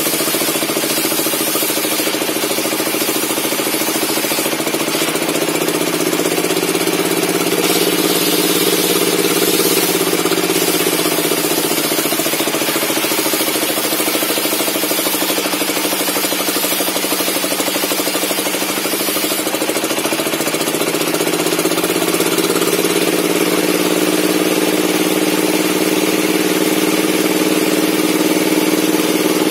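Log-ripping circular table saw running; its pitch sags through the middle as the blade is loaded in a cut through the log, then climbs back to full speed.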